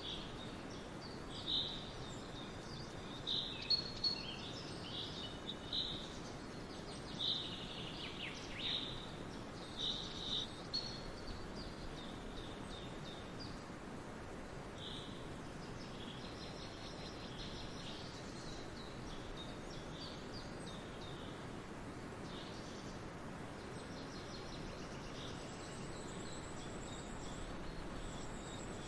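Several songbirds chirping and calling over a steady background hiss of forest ambience, with the calls busiest in the first half and sparser and fainter after.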